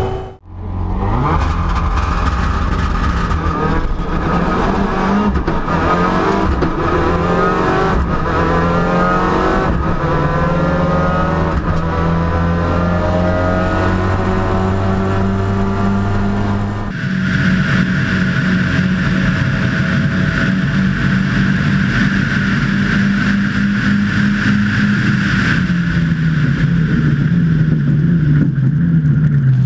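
Ford Escort WRC rally car's turbocharged engine running hard as the car is driven, its pitch climbing and shifting. About halfway through, the sound changes abruptly to a steadier engine note.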